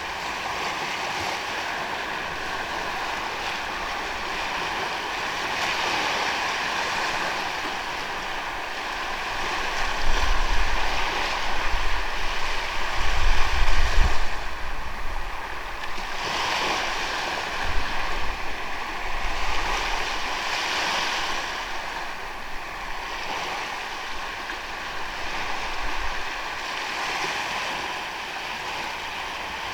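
Ocean waves washing onto a sandy beach, the surf rising and falling in swells every few seconds. There is a heavier low rumble around the middle.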